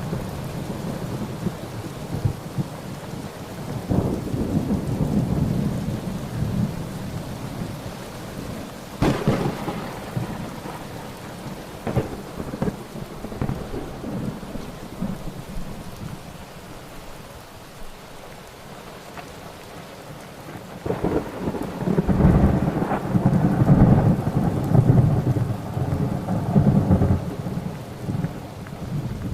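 Thunderstorm: steady rain with rolling thunder, sharp cracks about nine and twelve seconds in, and a long, loud rumble building about two-thirds of the way through.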